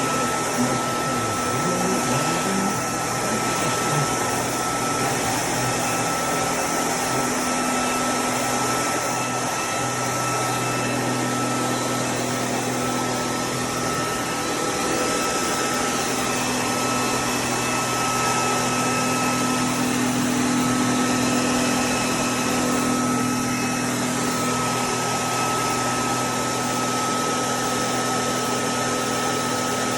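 Tineco Pure ONE S15 Essentials cordless stick vacuum running steadily, with a constant high motor whine over a broad hiss of airflow.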